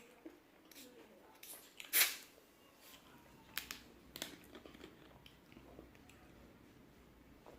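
Crispy fried chicken being bitten and chewed: scattered crunches, the loudest about two seconds in, with a run of smaller crunches a little later.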